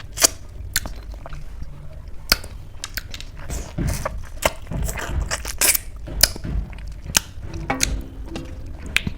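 A person chewing food close to the microphone, with many sharp mouth clicks, smacks and crunches scattered through it.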